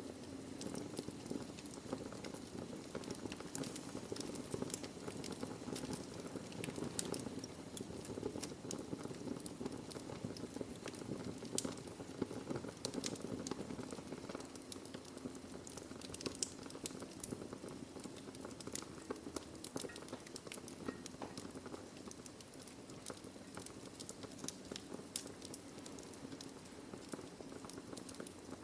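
Wood fire burning in a fireplace: a steady low rushing under dense, irregular crackles and pops of burning logs.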